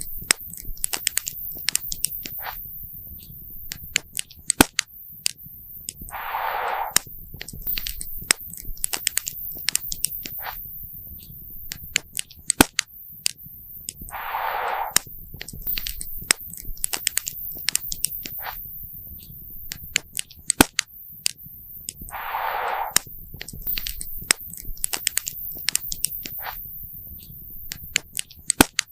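Wood campfire crackling and popping, with sharp irregular snaps over a low steady rumble. A short hiss comes about every eight seconds.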